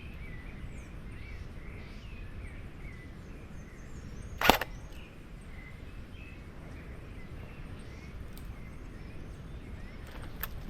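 A single sharp airsoft gun shot about four and a half seconds in, over a steady low rumble and faint bird chirps, with a few small clicks near the end.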